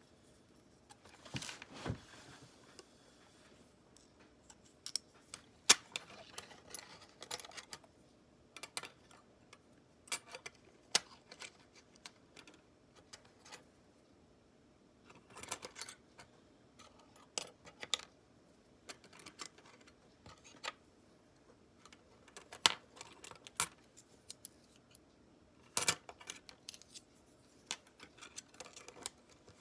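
Small metal parts and tools clicking and clinking as they are handled, with short scraping sounds, in irregular bursts.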